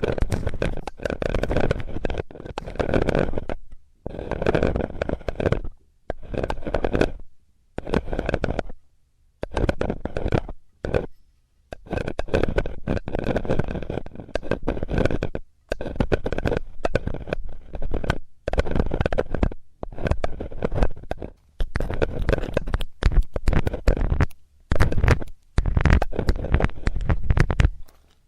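ASMR ear cleaning on a binaural microphone with a metal tool: close, rubbing scrapes in strokes of one to three seconds, with short pauses between them.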